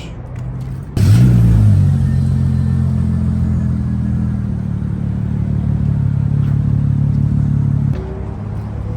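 Mercedes-Benz C32 AMG's supercharged V6 revved briefly about a second in, its pitch rising then settling, then running steadily, a little quieter near the end.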